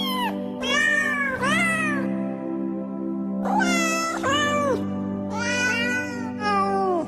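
A cat meowing again and again, each meow rising then falling in pitch, over background music with steady held notes.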